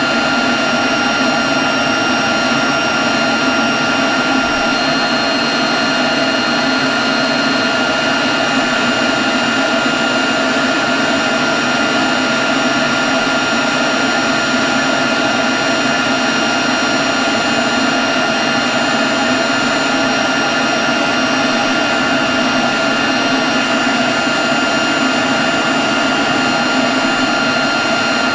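Leaf blower running steadily at one constant speed: a rush of air with a steady high whine on top.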